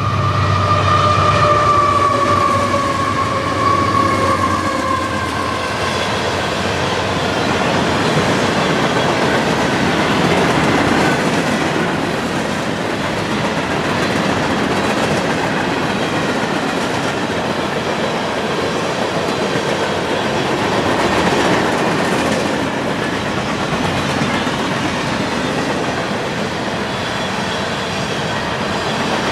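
Freight train passing: a locomotive's pitched drone slides down in pitch over the first few seconds as it goes by, then a steady rumble and clickety-clack of freight cars rolling past.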